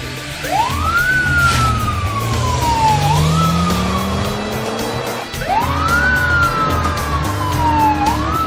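A wailing siren sound effect over background music. Twice, its pitch rises quickly, then falls slowly, followed each time by a shorter rise and fall.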